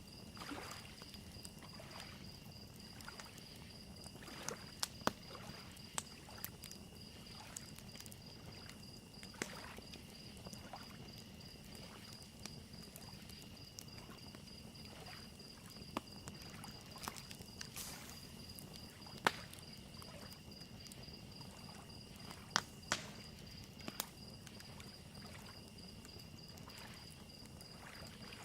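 Evening lake ambience: crickets chirping in a steady, rapid high trill, a wood fire crackling with sharp pops scattered through, and soft waves lapping at the shore.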